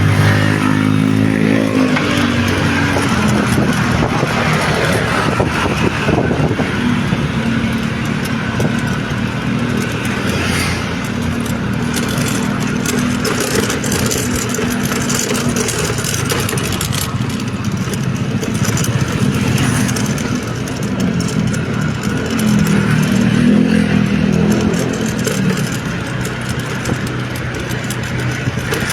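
A motor vehicle engine running on the move. Its pitch falls over the first couple of seconds, then it runs steadily over a constant hiss of road and wind noise.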